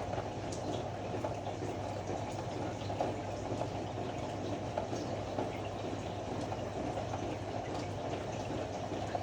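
Ariston AML125 washer-dryer running, water churning in the drum over a steady low hum, with faint scattered ticks.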